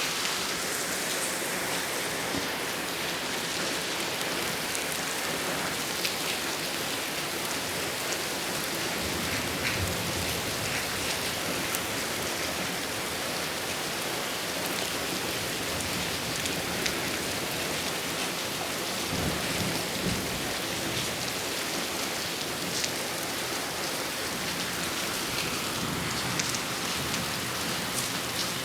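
Heavy rain falling steadily and pattering on surfaces during a storm. Low rumbles come in about a third of the way in and again about two-thirds of the way in.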